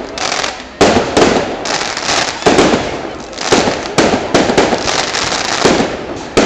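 Fireworks display: aerial shells bursting in quick succession, a sharp bang every half-second to second, each followed by crackle and a rolling echo.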